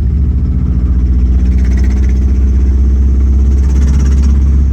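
Subaru Legacy's boxer engine running steadily with a loud low exhaust rumble. The car still has an exhaust problem, and the engine is being listened to for the knock it had. It is judged to sound much less bad now.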